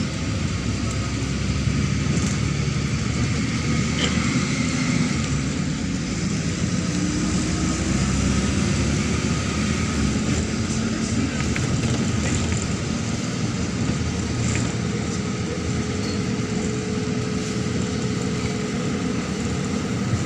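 Neman city bus under way, heard from inside the passenger cabin: steady engine and road noise.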